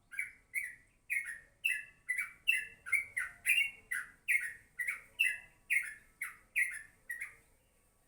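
Yellow-vented bulbul calling: a run of short, loud chattering notes, each sweeping downward, about two a second, stopping about seven seconds in.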